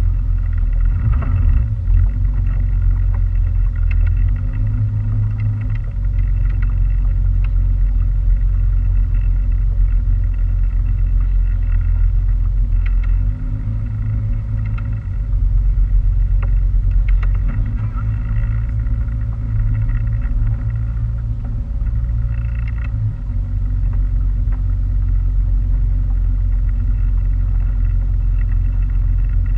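Motorboat engine running steadily under way, a heavy low rumble with a steady hum above it, dipping briefly a few times.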